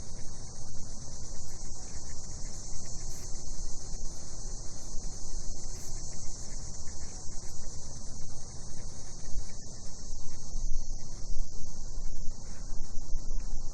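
Steady chorus of cicadas singing at night, one continuous high buzz with no breaks, over a low rumble.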